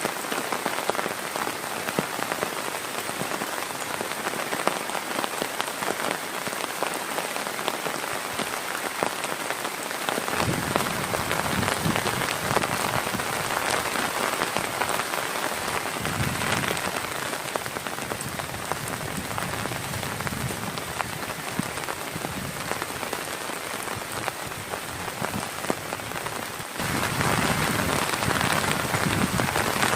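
Heavy rain falling steadily, with many individual drops ticking. About ten seconds in the sound shifts suddenly, gaining a deeper rumble, and near the end it steps up louder.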